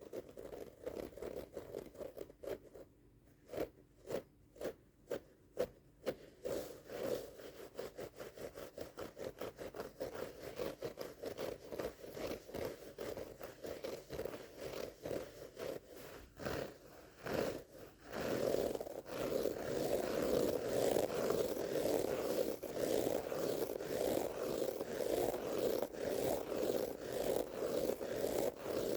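A carpet rug being scratched and rubbed in rhythmic strokes. The strokes are separate at first, then come faster, and about two-thirds of the way through they turn louder and almost continuous.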